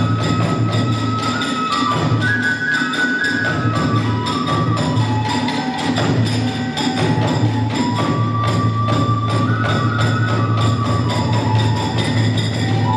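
Hiroshima kagura accompaniment music: a bamboo flute melody steps downward and then climbs again, over fast, driving strokes of taiko drum and clashing hand cymbals.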